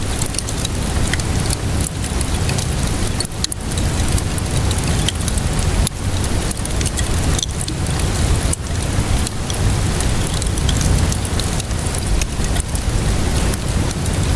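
Steady rainfall mixed with a crackling wood fire: a constant hiss and low rumble, with frequent small sharp pops and snaps scattered through it.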